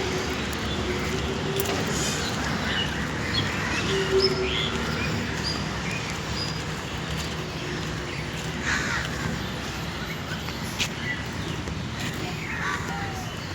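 Birds calling, with many short chirps and calls through the stretch over a steady low background rumble.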